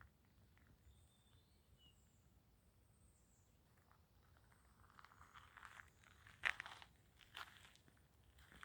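Footsteps crunching on a dry trail, starting about five seconds in, with the loudest sharp crunch a little later.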